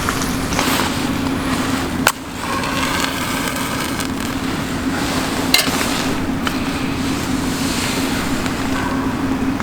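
Wood fire crackling, with sharp pops about two seconds in and again a little past five seconds, over a steady low hum.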